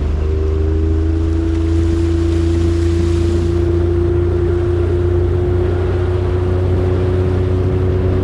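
Outboard motor of a flats boat running steadily at speed after throttling up, with wind and water rush.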